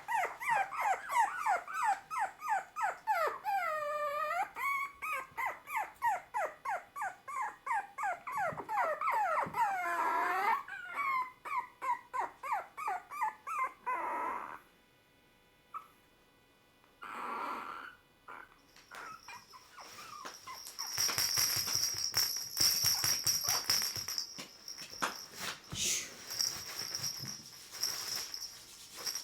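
Chihuahua puppy whimpering in a fast run of high squealing cries, about three a second, some bending up and down in pitch. After a pause around the middle, a noisier hiss with a steady high tone takes over.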